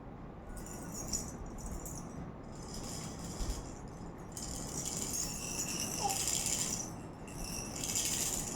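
A baby's rattle toy being shaken in several bouts of rattling, each lasting from about half a second to a couple of seconds.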